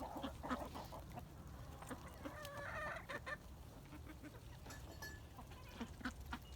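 Chickens clucking quietly while feeding on black soldier fly larvae: a few short clucks near the start and a longer call about two and a half seconds in, with faint scattered clicks.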